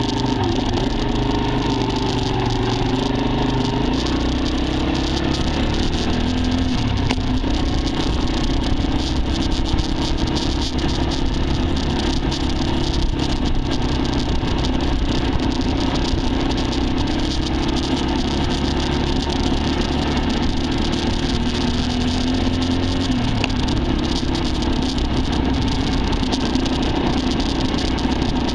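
Dirt bike engine running while riding, its pitch rising and falling with throttle and gear changes, over a steady rushing noise.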